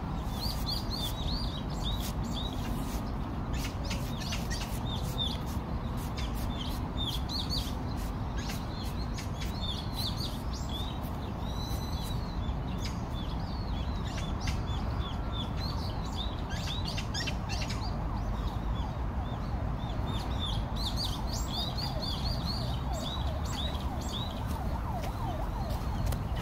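Small birds chirping in quick, repeated short notes over a steady low outdoor rumble, with a few scattered soft clicks.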